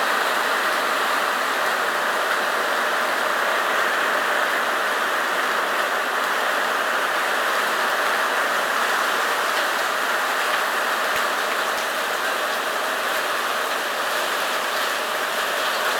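Heavy rain pouring down as a steady hiss, with faint fine patter throughout.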